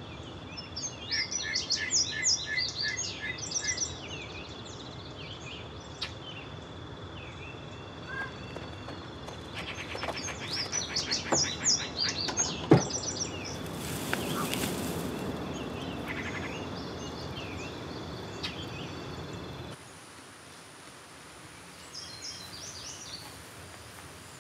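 Small birds singing in three bursts of rapid chirps over a steady rural outdoor ambience with a thin, continuous high tone. A brief rustle comes a little after the middle, and the background drops a few seconds before the end.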